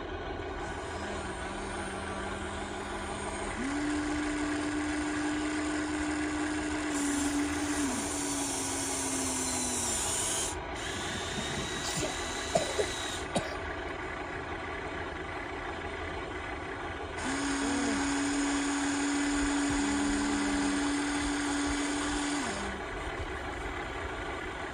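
Small electric motors and plastic gearboxes of radio-controlled model construction machines whining as they work. The whine holds steady in two long runs, with a few sharp clicks between them.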